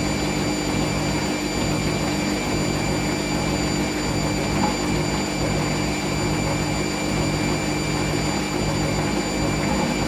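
Hoover SIX Inter@ct washing machine on its final spin, the drum turning at speed with a steady motor whine over a continuous rumble.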